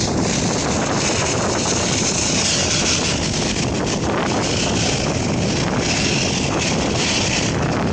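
Steady roar of a Boeing 757-300 airliner's jet engines, mixed with wind buffeting the microphone.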